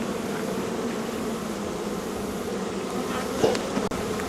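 A colony of honeybees in an open hive buzzing with a steady, even hum while its frames are being worked. A brief, sharper sound comes about three and a half seconds in.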